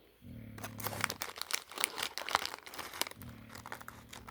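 Packaging crinkling and crackling as it is handled and opened, a dense run of quick crackles starting about half a second in.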